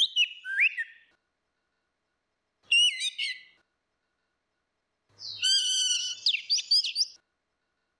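Orange-headed thrush singing: three rapid phrases of varied whistled and gliding notes separated by short silences, the last and longest about five seconds in.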